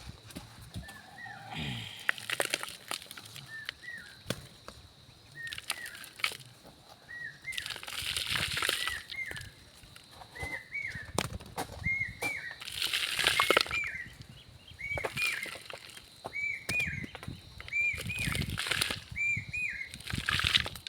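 A small bird chirping over and over in short rising-and-falling notes, with several bursts of scraping noise about a second long and scattered knocks.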